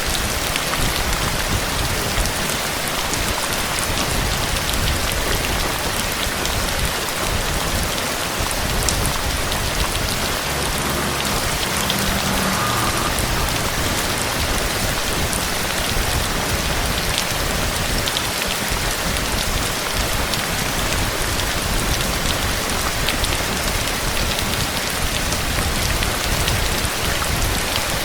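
Steady heavy rain with many individual drops ticking.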